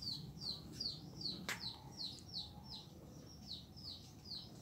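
A bird calling a short, high, falling chirp over and over, about two and a half times a second, with a single sharp click about a second and a half in.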